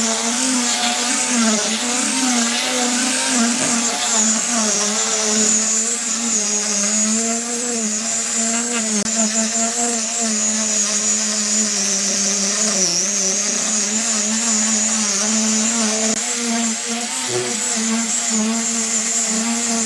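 Electric power tool motor running continuously, its whine steady but dipping slightly in pitch now and then as it works the wood.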